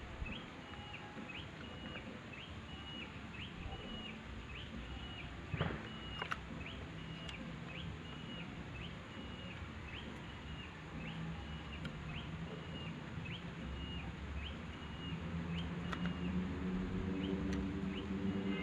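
A bird calling over and over, a short high chirp about every two-thirds of a second. Two sharp clicks come about a third of the way in, and a low hum grows in near the end.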